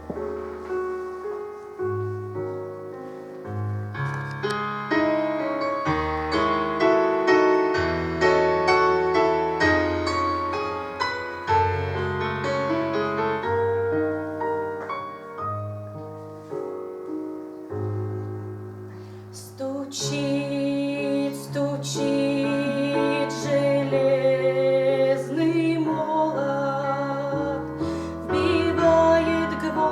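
Instrumental keyboard music, piano-like chords over a steady bass line, playing the introduction to a church song. About twenty seconds in, the sound brightens and a wavering higher melody line joins.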